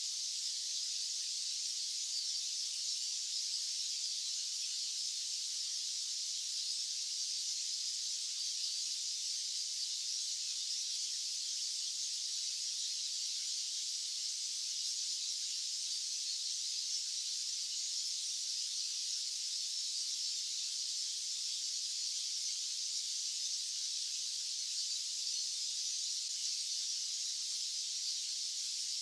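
Steady, high-pitched white-noise hiss that stays unchanged throughout, with no low rumble beneath it.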